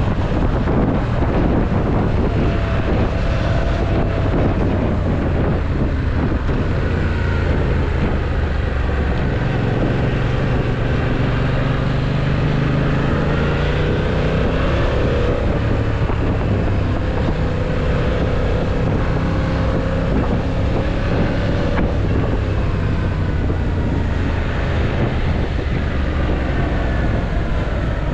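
Yamaha MT-07's parallel-twin engine running as the motorcycle rides, its pitch rising and falling several times as it speeds up and slows. Wind noise rushes over the microphone throughout.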